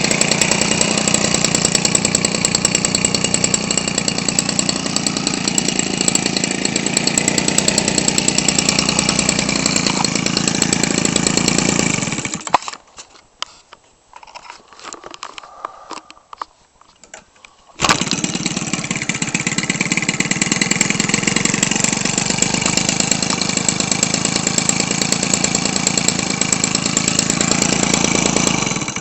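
Weed Eater Featherlite 21cc two-stroke engine, converted to turn an aircraft propeller, running steadily. About twelve seconds in it winds down and stops. After a near-quiet gap of about five seconds with a few faint clicks, it comes back suddenly and runs on steadily.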